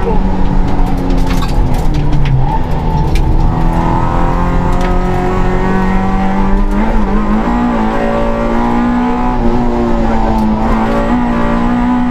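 Suzuki Swift rally car's engine working hard, heard from inside the cabin. About halfway through the revs drop as the car slows for a bend, then climb again as it accelerates away. A few sharp ticks are heard along the way.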